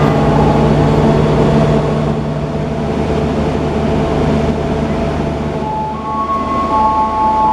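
Passenger train running: a steady rumble and rail noise with a low drone. A few held higher tones come in near the end.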